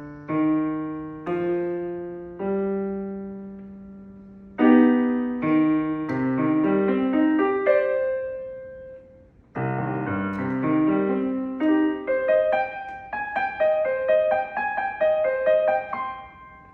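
Solo piano playing slow held chords with a melody. The chords thin out to a near pause about nine seconds in, then pick up again with quicker repeated notes, and the last chord fades away near the end.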